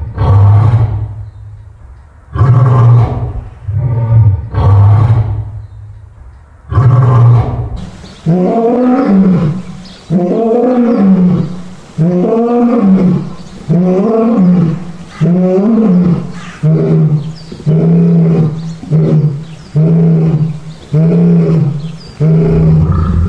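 Lion roaring bout: about five deep roars, then a long run of shorter calls that each rise and fall in pitch, about one a second, getting shorter and closer together toward the end.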